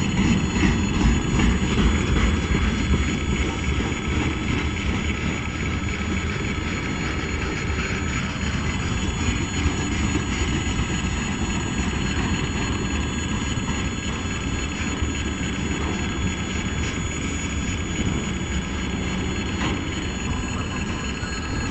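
Freight train wagons rolling past: a steady rumble and rattle of steel wheels on the rails.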